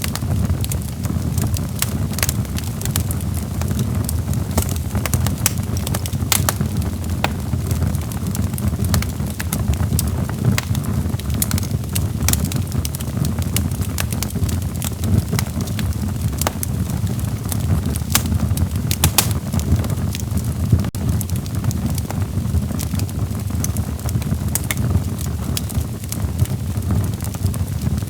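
Log fire burning in a fireplace: a steady low rumble of flames with frequent sharp, irregular crackles and pops from the burning wood.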